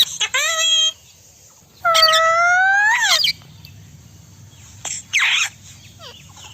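Indian ringneck parrot calling: a short pitched phrase at the start, then a long drawn-out call of about a second and a half that rises in pitch at its end, and a brief harsh screech about five seconds in.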